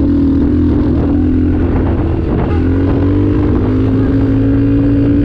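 Honda CRF450L's single-cylinder four-stroke engine running under load while riding off-road. The pitch holds steady, drops briefly about two seconds in, then climbs slowly as the throttle opens.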